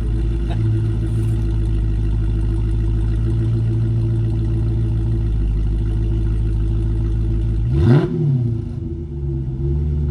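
Dodge Challenger Scat Pack's 392 (6.4-litre) HEMI V8 idling steadily through the stock exhaust, its baffles held open by an MFER. About eight seconds in it gets one quick rev, then settles back to a lower idle that rises and falls.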